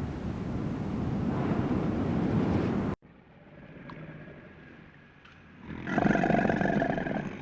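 A steady rushing noise that cuts off abruptly about three seconds in, then, near the end, a loud pitched call from a large animal lasting just over a second.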